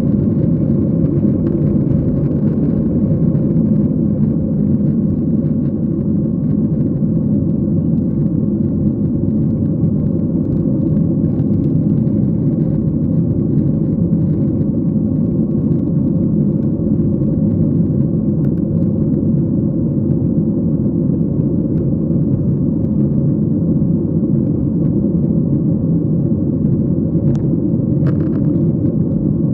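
Steady low drone of engine and airflow noise inside an airliner cabin, with a couple of faint ticks near the end.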